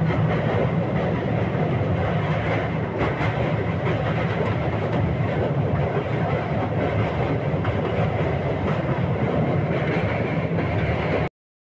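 Secunderabad–Danapur Express in motion, heard from inside a coach by an open window: steady running noise of the wheels on the rails, cutting off suddenly near the end.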